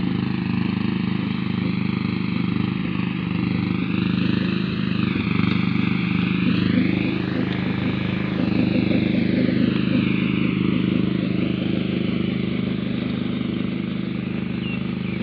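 Engine of a grass-cutting tractor running steadily as it mows the golf course turf.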